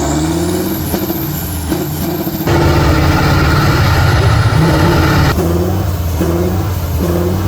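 Heavy off-road trial truck engine running and revving, with pitch that rises and falls. The sound jumps abruptly louder and fuller about two and a half seconds in, then drops back about five seconds in.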